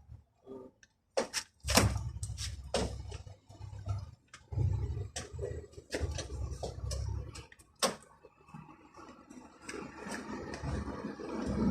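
Scattered sharp clicks and knocks, a few seconds apart, over a low rumble that comes and goes, as of hand work on metal parts.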